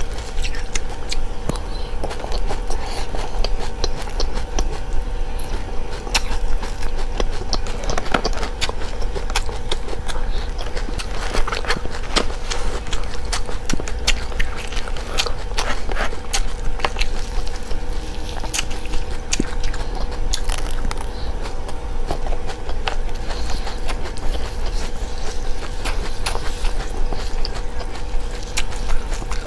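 Close-up chewing and crunching of dry seeds, with many small irregular crunches and clicks, over a steady low hum.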